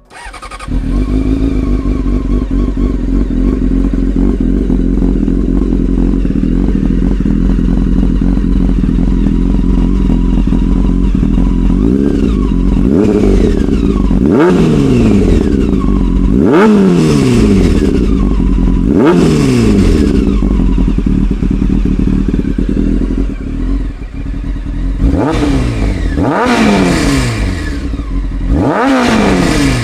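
1999 Honda CBR600 F4's carburetted inline-four, on an aftermarket slip-on exhaust, starts about half a second in and settles into a steady idle. From about halfway it is revved in a series of quick throttle blips, each rising sharply and falling back to idle.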